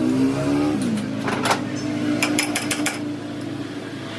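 A motor running. Its pitch rises and then drops within the first second, then holds steady, with scattered sharp clicks and knocks.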